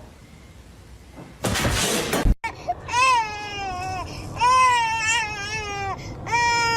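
A short loud rushing noise that cuts off abruptly, then three drawn-out wailing cries, each a second or more long, sagging in pitch at the end.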